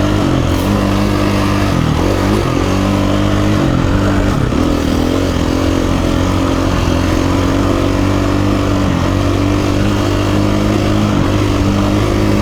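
KTM 350 EXC-F dirt bike's single-cylinder four-stroke engine running at steady revs while riding a trail, with brief dips in revs about two and four and a half seconds in.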